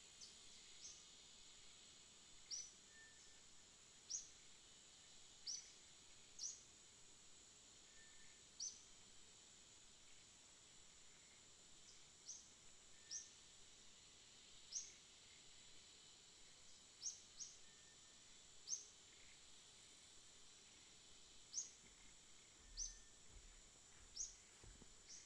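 Birds chirping: short, high, falling chirps every second or two over a faint steady high hiss. A few low thumps near the end.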